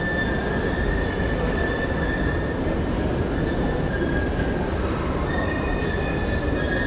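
Train running on rails with its wheels squealing: a steady rumble under a thin, high-pitched squeal that breaks off briefly and comes back.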